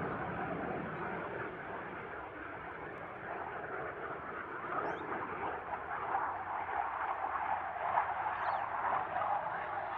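Distant jet or propeller aircraft noise, a rushing sound that eases a couple of seconds in and builds again towards the end as aircraft noise returns.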